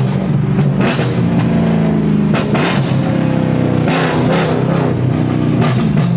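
Straight-piped BMW exhaust through a series of rev-matched downshifts: the engine note climbs and falls several times with sharp blips of the throttle, echoing in a parking garage.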